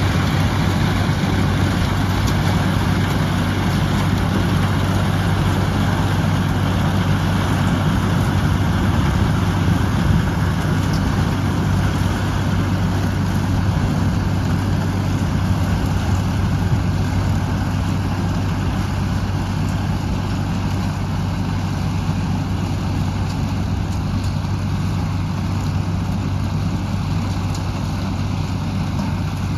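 Engine of antique farm machinery running steadily at a constant speed, with a strong low hum.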